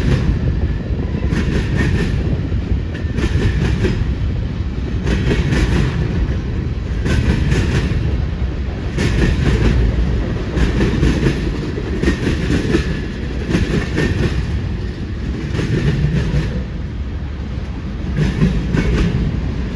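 Freight train rolling past: a steady low rumble of the cars, with the wheels clacking over rail joints in uneven groups every second or so.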